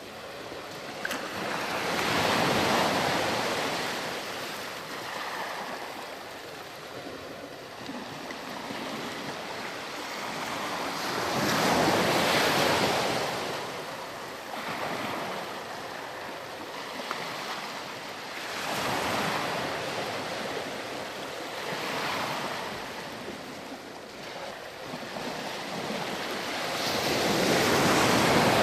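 Sea waves breaking on a sandy beach and washing back, each wave swelling to a peak and fading over several seconds, about four times in turn.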